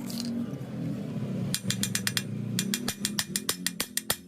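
Socket ratchet handle clicking rapidly, about eight clicks a second, while working a clutch bolt on a Honda GX35 brush cutter. The clicking starts about a second and a half in.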